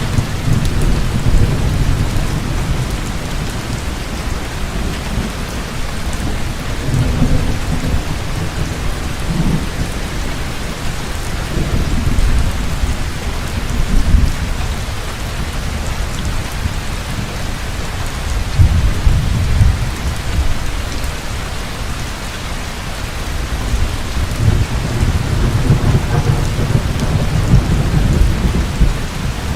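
Heavy rain falling steadily, with thunder rumbling low underneath in repeated swells, the strongest rolls about halfway through, around two-thirds of the way in and near the end.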